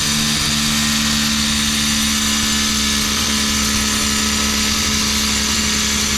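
Angle grinder with a new blade cutting through porcelain tile: the motor runs at a steady, even pitch under a gritty cutting hiss.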